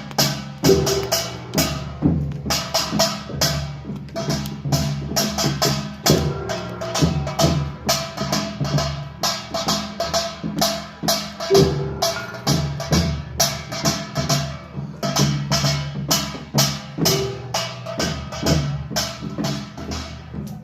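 Korean pungmul percussion ensemble playing a fast, steady rhythm: many quick drum and gong strikes layered over a sustained low ringing.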